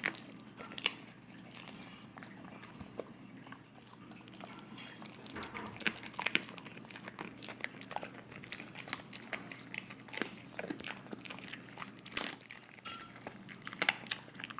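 Wolfdog chewing and crunching on raw chicken: irregular wet bites and crunches, a few of them sharp and loud.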